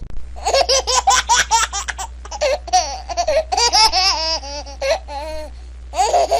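High-pitched laughing: a fast run of short bursts, then longer wavering sounds and a falling one near the end, over a steady low hum.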